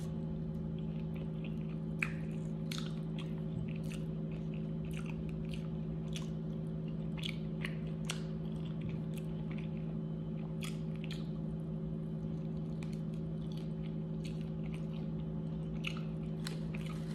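Close-up chewing of chicken wings: irregular wet mouth clicks and smacks with a few crunchy bites, over a steady low hum.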